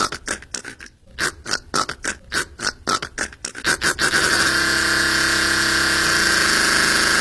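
A man making sounds with his mouth: a quick run of short puffs or clicks, about four a second with a brief pause near one second in. Then, from about four seconds in, a steady harsh noise held for about three seconds that cuts off suddenly.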